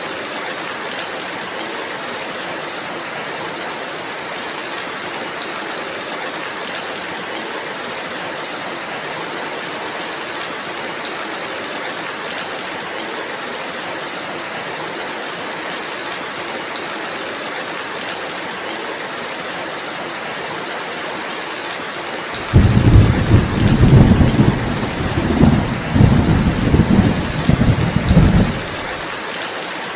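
Steady rainfall hissing throughout. About three-quarters of the way through, a loud rolling rumble of thunder breaks in suddenly, swells in several surges for about six seconds, then stops abruptly.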